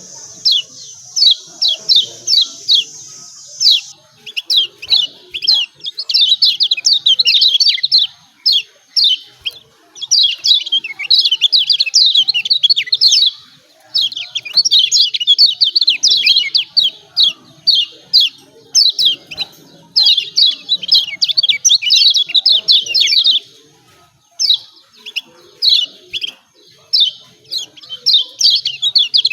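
Kecial kuning (Lombok white-eye) giving its excited 'ciak ciak' call: very rapid, high chirping notes in runs of a few seconds with brief pauses between them.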